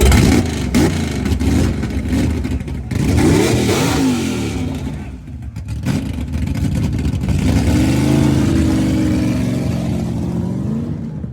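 1969 Hemi Cuda's 426 Hemi V8 being revved: a sharp crack at the start, several quick blips up and down, then a longer rev held for a few seconds before it drops back near the end.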